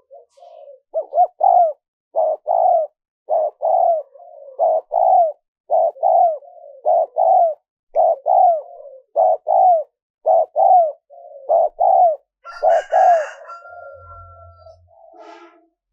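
Spotted dove cooing: a long series of low, repeated coo phrases, the notes coming in quick pairs and triplets. Near the end a brief, harsher sound with a thin held tone cuts across the coos.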